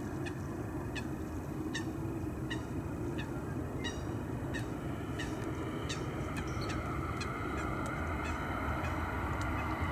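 A bird calling over and over, short sharp calls about one and a half a second, loudest in the mix. Under it runs the low steady rumble of a Boeing 737-800's CFM56 jet engines on final approach, their whine growing louder in the last few seconds.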